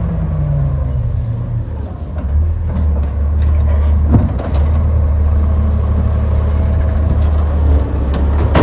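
Garbage truck's engine running with a deep steady rumble, with a brief high squeal about a second in.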